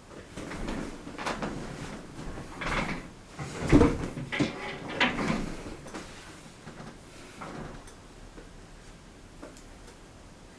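Objects being handled, rustling and knocking, with the sharpest knocks about four and five seconds in. It goes quieter after about six seconds, leaving a few faint ticks.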